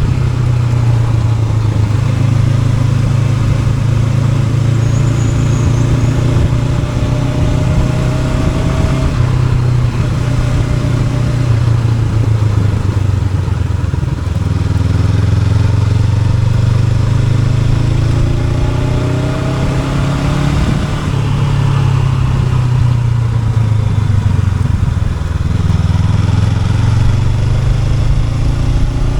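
Honda NX500's parallel-twin engine running as the motorcycle is ridden, with a steady low drone and several rising pulls as it accelerates and revs.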